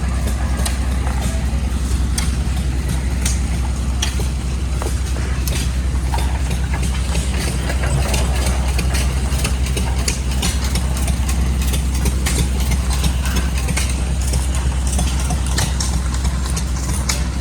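Several old stationary gas engines running at once: a steady low hum with many scattered, irregular sharp pops and clicks.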